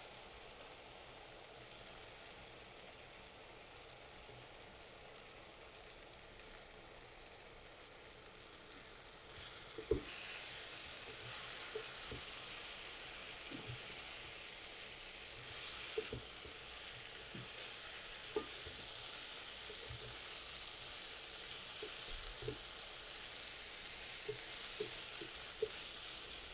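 Flaked boiled fish frying in a thick spiced onion-tomato masala in a kadai, with a steady sizzle that grows louder about ten seconds in. A wooden spatula stirs it, knocking and scraping against the pan now and then.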